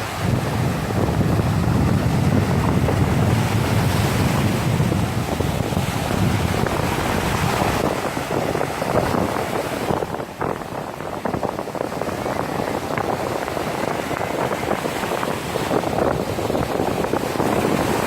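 Black Sea surf breaking and washing up a sandy beach in a continuous rising and falling wash. A heavier surge comes in the first few seconds, with a brief lull about ten seconds in.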